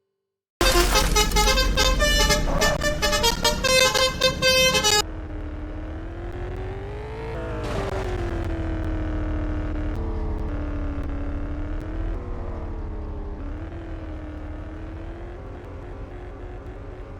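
A vehicle horn honking in rapid repeated blasts for about four seconds, then a vehicle engine running with its pitch rising and falling slowly.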